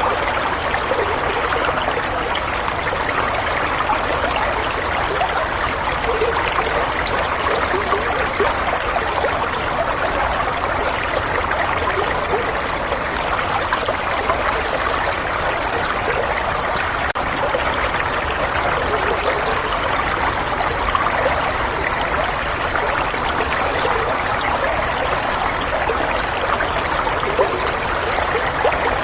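Running water flowing and trickling steadily, like a stream.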